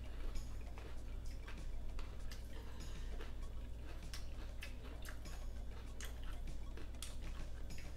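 Close-miked chewing of a mouthful of taco: irregular wet mouth clicks and smacks, several a second, over a steady low hum.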